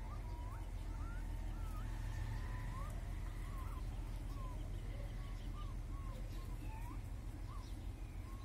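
A steady run of short whistled bird notes, each a quick rising or falling slide, irregularly about two a second, over a low steady rumble.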